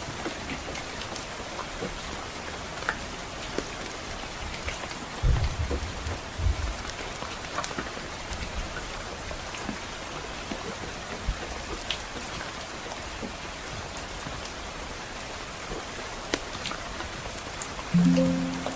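Steady soft rain mixed with a crackling wood fire, with many small scattered ticks and pops. A brief low rumble of distant thunder comes about five seconds in, and a loud low musical note starts near the end.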